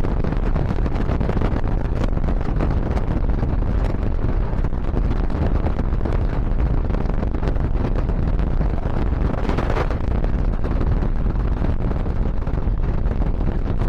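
A moving passenger train heard from on board: a steady running rumble with faint scattered clicks, and wind buffeting the microphone throughout. About ten seconds in, a brief brighter hiss rises over the rumble.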